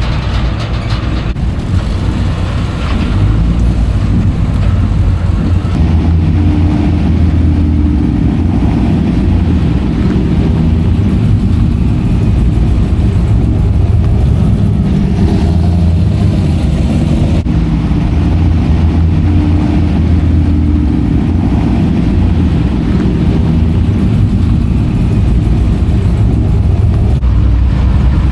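Classic truck engines running at a low, steady pitch, with little change in speed.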